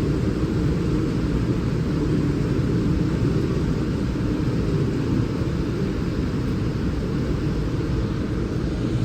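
Steady low rumble of a railway station platform, with trains and station machinery running, unchanging throughout.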